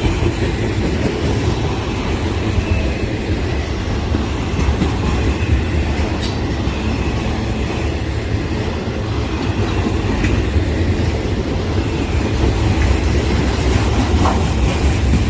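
Freight train cars rolling past close by: a loud, steady rumble of steel wheels on the rails with rhythmic clacking over the rail joints and a faint squeal now and then.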